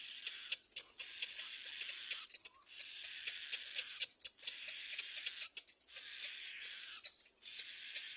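Little black cormorant nestling making raspy, hissing begging calls, each about a second long with short breaks between them, along with rapid sharp ticking clicks several times a second.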